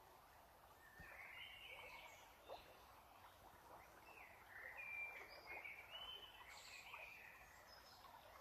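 Faint bird chirps and short whistles, several in a row from about a second in until near the end, with a few faint ticks.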